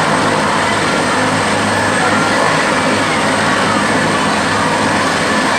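Helicopter running with a loud, steady engine and rotor noise and a constant low hum.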